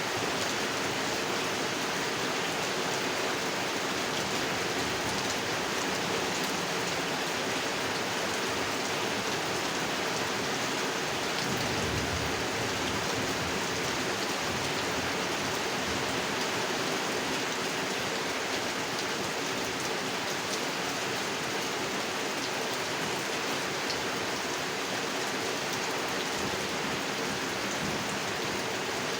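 Steady heavy rain falling on a pond, with a brief low rumble about twelve seconds in.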